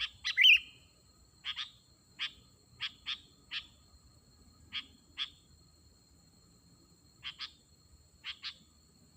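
Sooty-headed bulbul (kutilang) calls: short sharp notes repeated at irregular intervals, often in quick pairs, with a louder warbled call about half a second in.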